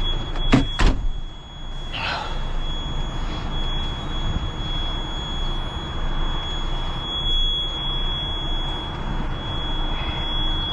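Heavy recovery truck's diesel engine running steadily, with a continuous high-pitched electronic buzzer tone sounding over it. Two sharp knocks sound about half a second and one second in.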